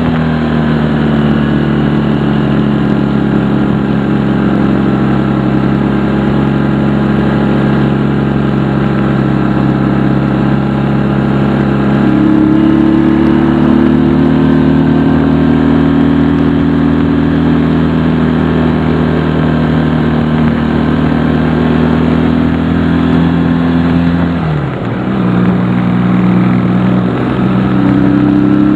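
Honda CD175 motorcycle's small parallel-twin four-stroke engine running under way. The engine note holds steady, climbs about twelve seconds in, drops sharply near the twenty-five second mark, then climbs again near the end.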